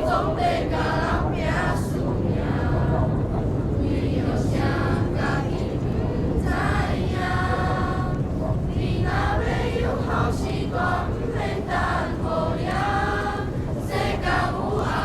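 A choir singing a song in Taiwanese Hokkien (Minnan), with many voices together over a steady low hum.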